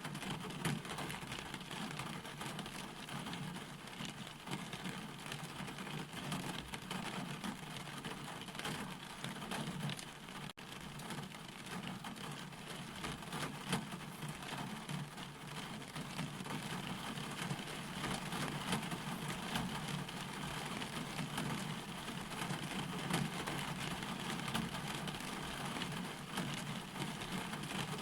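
Steady rainfall: a dense, even hiss of rain with many individual drops striking a surface. There is a brief dropout about ten seconds in.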